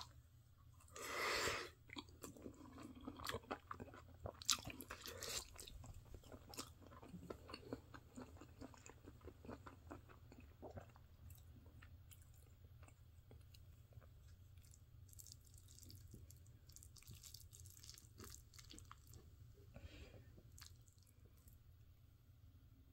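Faint, close chewing of food, heard as many small irregular wet clicks, busiest in the first half and sparser later. About a second in there is a brief, louder rush of breathy noise.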